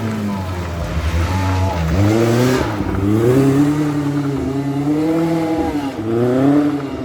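Rally car engine revving hard under acceleration. Its pitch climbs, holds and falls again with gear changes and lifts off the throttle, and there is a burst of hiss about two and a half seconds in.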